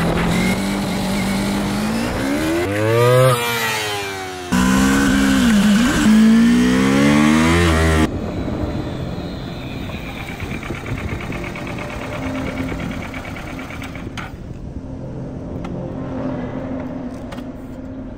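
Motorcycle engine revving, its pitch climbing and falling several times, broken by abrupt cuts. After about eight seconds it settles into a lower, steadier running sound.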